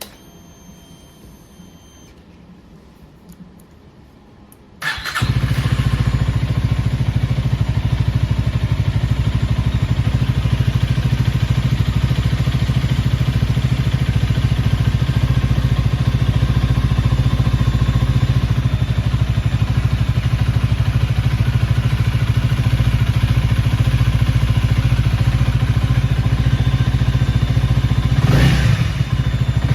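Honda Rebel 250's single-cylinder engine started about five seconds in, catching at once and then idling steadily, with a short blip of the throttle near the end.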